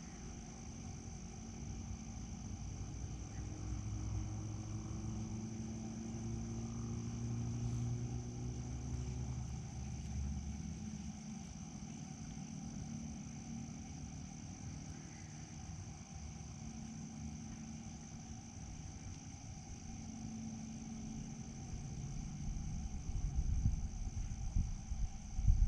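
Steady high-pitched insect trill, typical of crickets, over a low droning rumble that swells and fades. Loud low knocks begin near the end.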